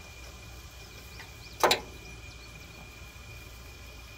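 A single sharp clank about one and a half seconds in, as the wrench with its add-on extension slips off the seized front brake bolt.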